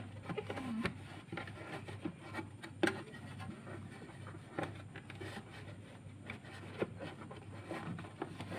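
Scattered light knocks, clicks and rubbing of objects being handled, over a steady low hum.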